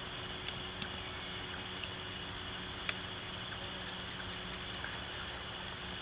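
Steady outdoor ambience: a constant high-pitched drone over a low, even rush, with a few faint sharp clicks about a second in and near the three-second mark.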